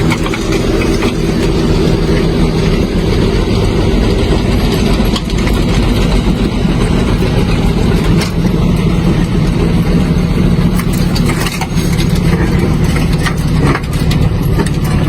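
An engine running steadily and close, with a constant low hum.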